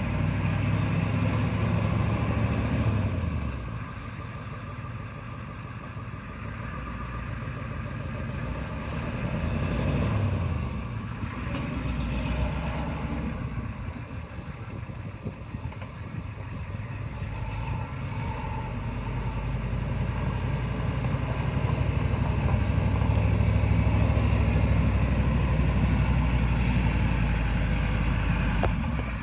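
1988 International 1654 truck's engine running, its pitch and loudness rising and falling: loud at first, dropping about three seconds in, then building again to its loudest near the end.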